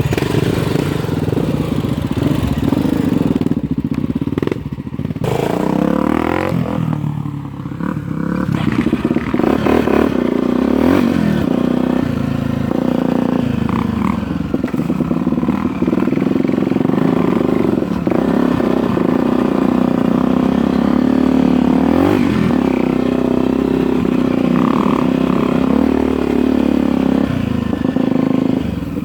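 Dirt bike engine running on a trail ride, rising and falling in pitch as it is revved between about 5 and 8 seconds in, then holding a steadier drone.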